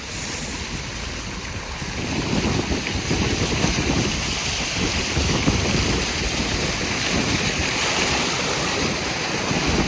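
Storm noise: wind gusting against the microphone over a steady rush of heavy rain, getting louder about two seconds in.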